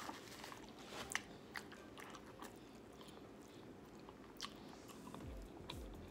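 Close-up mouth sounds of someone chewing a shrimp burrito: soft wet chewing with scattered clicks and smacks, the sharpest about a second in and again past four seconds. A few low thumps come near the end.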